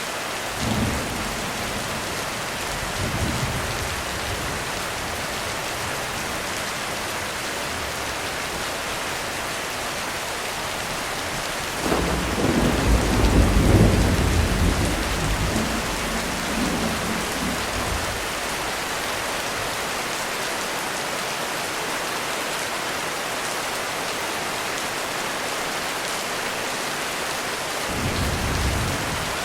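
Heavy rain falling steadily on a roof, with a long rolling thunder rumble about twelve seconds in that fades over several seconds, and a few shorter, fainter rumbles near the start and end.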